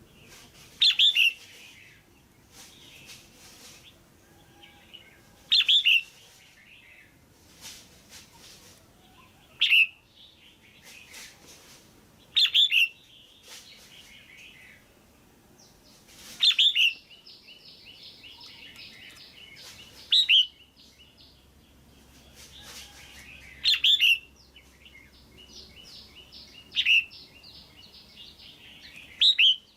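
Female red-whiskered bulbul calling: a short, loud call repeated about every three to four seconds, nine times, with fainter chirping and quick notes in between.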